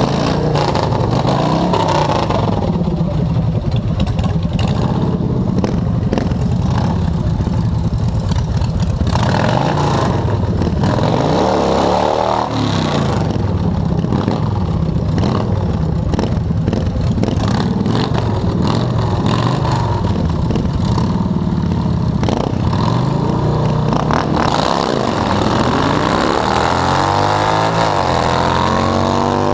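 Motorcycle engines revving and running at a drag strip, their pitch rising and falling repeatedly, with a bike accelerating hard near the end.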